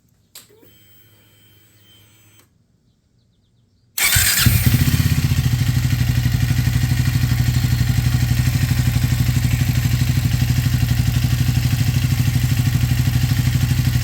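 Triumph 400's single-cylinder engine starting with a faint whirr a few seconds earlier, then idling with an even pulse and no broken-glass rattle, the engine-cover badge having been damped.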